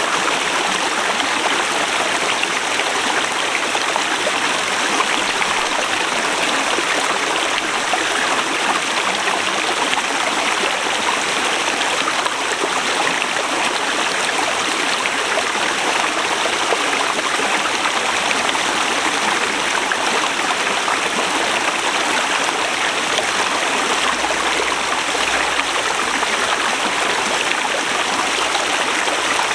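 Forest river flowing over rocks: a steady, even rush of water with no breaks.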